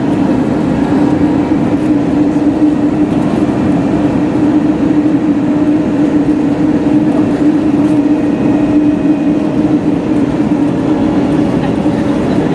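Steady cabin noise inside an Airbus A321neo: engine hum and airframe rumble, with a constant low drone throughout.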